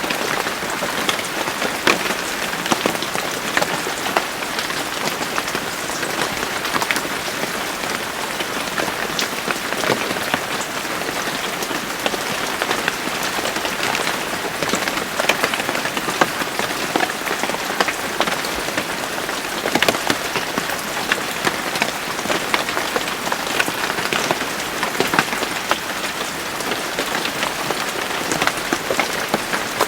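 Steady rain: a dense, even hiss of falling rain with many separate drops striking sharply close by.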